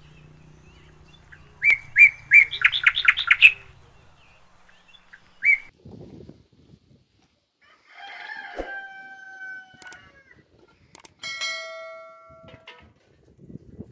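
Small birds chirping in quick repeated high notes, the loudest sound, followed by a rooster crowing about halfway through. Near the end comes a sudden bell-like chime that rings and fades.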